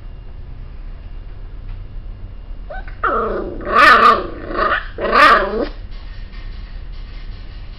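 A dog vocalizing: a growling call with two loud, bark-like peaks about a second apart, lasting under three seconds, over a steady low rumble.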